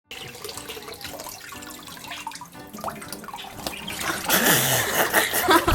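Water splashing in a kitchen sink, swelling louder about four seconds in.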